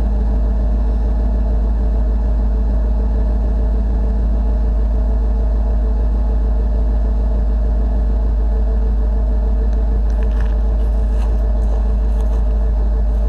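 1991 Chevy pickup's engine idling steadily, still warming up after a cold start in 10-degree weather. A few faint clicks come through near the end.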